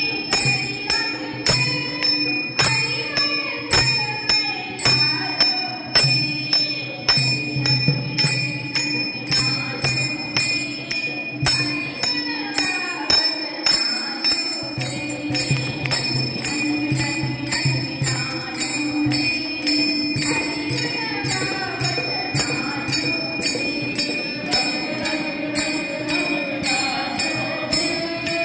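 Marathi devotional bhajan music: a gaulan sung to a steady jingling percussion beat about twice a second, over a sustained drone.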